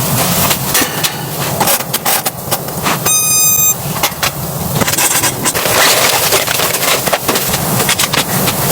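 Strong wind blowing hard, with many sharp irregular cracks and flaps through it, and a short high tone lasting under a second about three seconds in.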